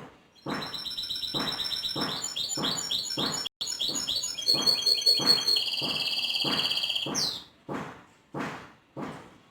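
Pet finch singing: a run of twittering phrases that gives way to a long rolling trill and ends in a quick rising note about seven seconds in. Throughout, a short noisy sound repeats about every two-thirds of a second.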